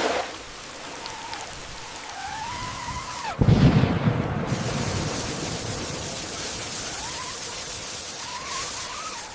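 RC truck's electric motor whining, its pitch rising and falling as the throttle is worked. About three and a half seconds in there is a sudden loud splash with a low rumble, followed by a steady hiss of churning water and mud spray while the motor whine comes back near the end.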